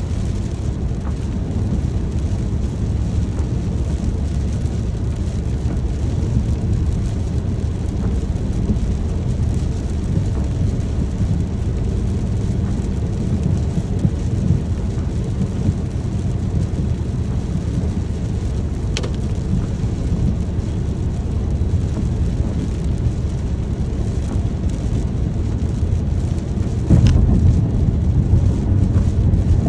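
Steady rain with a low rumble of thunder underneath. The rumble swells louder near the end, with a few sharp drip ticks along the way.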